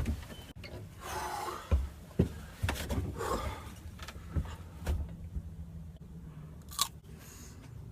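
A person eating a raw bird's eye chilli: soft chewing and mouth clicks, with two short breaths, and a sharper click near the end.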